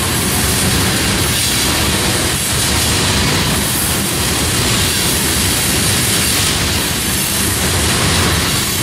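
Freight train rolling past: a loud, steady rumble and rattle of wheels and cars on the rails.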